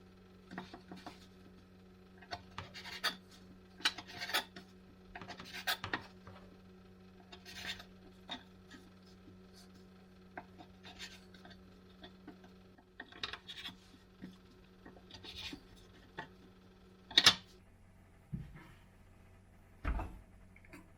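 Dishes and cutlery being handled: a string of light clinks, scrapes and knocks, one sharper clink a little after the middle and a dull thump near the end. A low steady hum runs underneath and stops a little past halfway.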